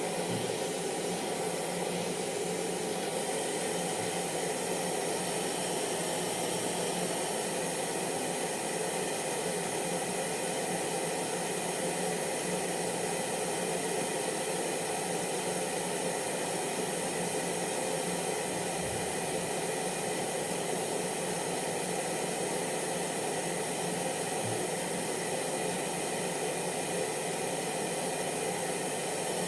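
Electric hair dryer running steadily, a constant hiss of blown air with the hum of its fan motor, with no change in level.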